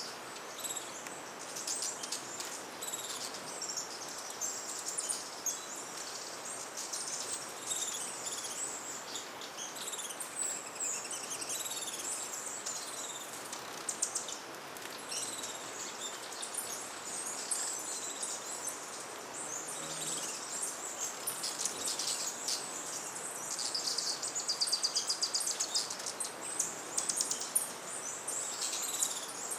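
Many hummingbirds at busy feeders giving high, thin chips and twitters, overlapping constantly. A fast rattling series comes about three quarters of the way through, all over a steady background hiss.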